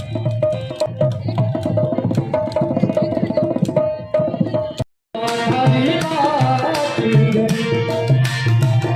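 Folk music with a hand drum playing a quick, steady rhythm. The sound cuts out completely for a moment just before halfway, then the drum comes back with a melody over it.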